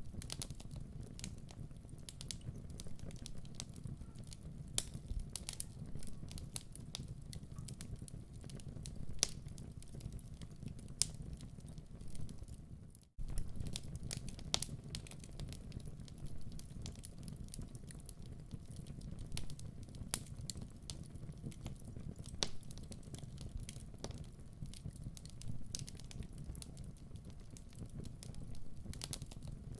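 Wood fire crackling in a fireplace: a steady low rumble of flames with many scattered sharp crackles and a few louder pops. The sound drops out for a split second about thirteen seconds in.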